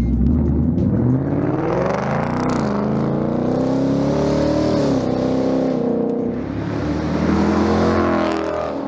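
Ford S650 Mustang GT's 5.0 V8 running through a Pypes 3-inch catback exhaust with M80 mufflers, revving: the engine note climbs and falls several times, with a drop about five seconds in and another rise and fall near the end.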